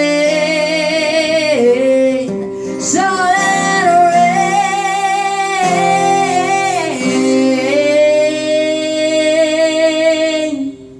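The end of a song: a singer draws out the last word in several long, wavering held notes over guitar chords, and the music stops shortly before the end.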